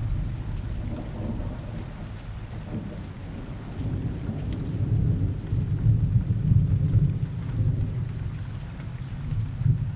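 Steady rain with a low rolling rumble of thunder that swells through the middle and eases off near the end.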